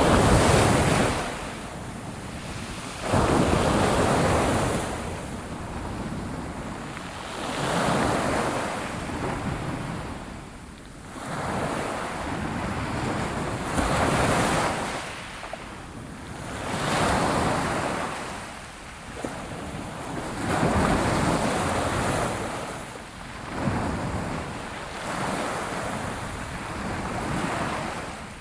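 Sea waves breaking and washing on a shore, each surge swelling and falling away every few seconds, with wind on the microphone.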